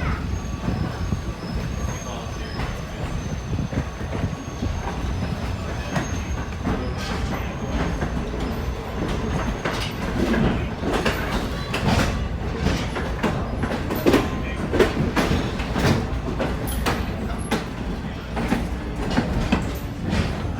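Railroad cars rolling on the track: a steady rumble with a faint high wheel squeal in the first few seconds. From about seven seconds in there are more and more sharp clicks of wheels over rail joints.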